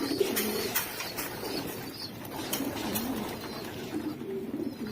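Pigeons cooing in a loft: several low, warbling coos overlapping, with a few faint clicks.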